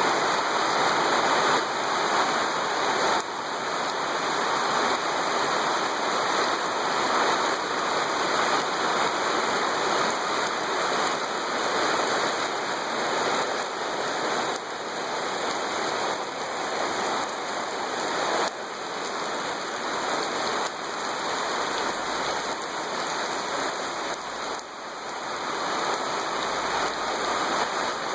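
Steady rain pouring down, a dense, even hiss.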